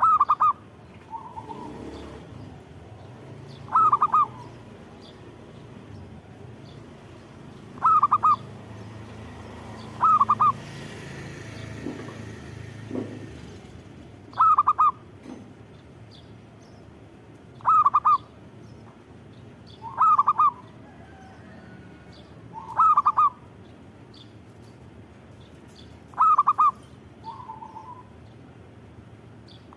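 Zebra dove (perkutut) cooing: short, rapid coo phrases repeated about every two to four seconds, some ending with a quieter, lower trailing note.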